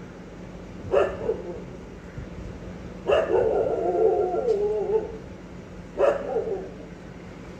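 A dog barking three times: short barks about a second in and near six seconds, and a longer drawn-out call in between, over a steady low hum.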